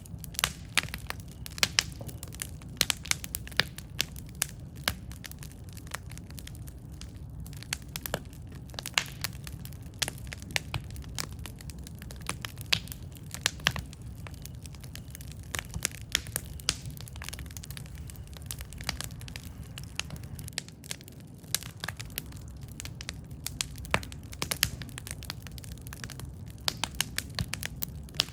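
Campfire burning: wood crackling with frequent sharp, irregular pops over a steady low rumble of the flames.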